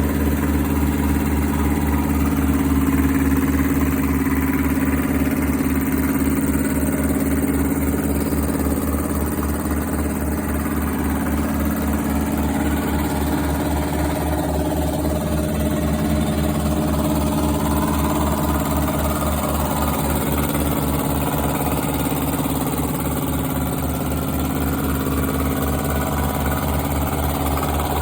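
Iwata SP-37P three-phase 200 V air compressor running steadily, with a fast, even mechanical pulsing from the pump.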